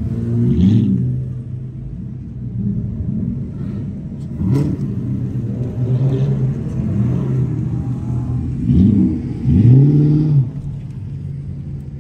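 Car engines running with a steady low rumble and being revved several times, the biggest rev rising and falling about nine to ten seconds in, heard from inside a car's cabin.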